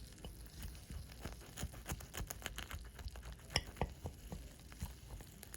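Crisp skin of an oven-roasted duck leg crackling as it is handled, a run of irregular sharp crackles and clicks.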